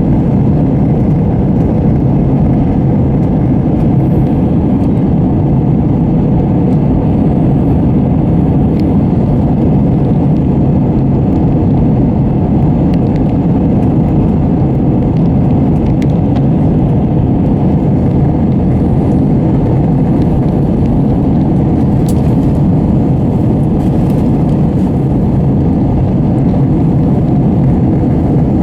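Steady, even engine and air noise heard inside the cabin of an Airbus A320 airliner, with no change in level or pitch.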